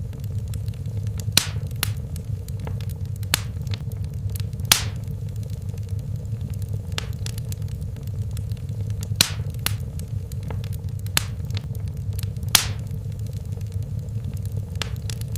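Wood fire burning in a fireplace: a steady low rumble of flames with sharp crackles and pops at irregular intervals, about a dozen, some much louder than the rest.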